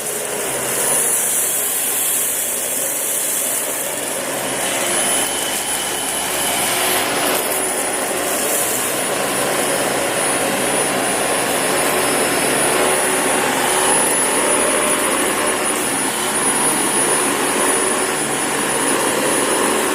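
Dyson DC40 upright vacuum cleaner running steadily, with a thin high whine over its motor and airflow noise, as it sucks up rice and oatmeal from the floor.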